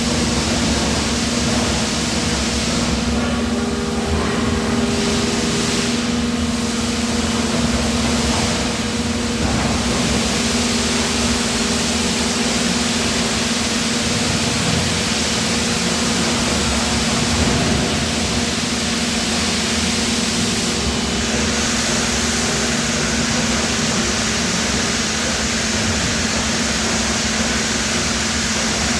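Steady machine hum and hiss of an 850-ton UBE die-casting machine and the plant around it, with a constant low drone throughout.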